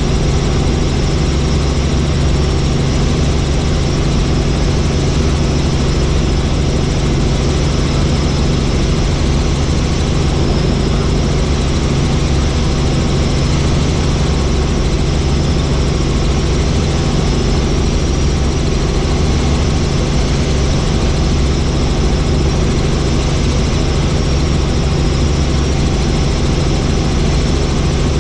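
Helicopter running steadily in flight: a constant engine and rotor noise with a steady low hum and rumble underneath.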